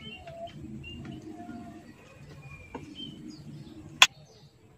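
Birds chirping faintly over a low steady hum, with a single sharp click about four seconds in.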